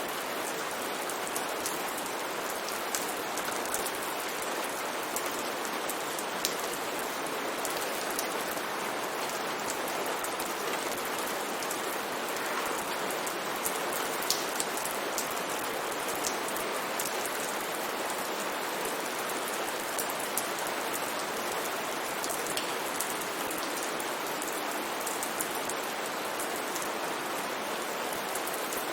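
Steady rain falling, with a constant hiss and many small drops pattering and clicking on a surface.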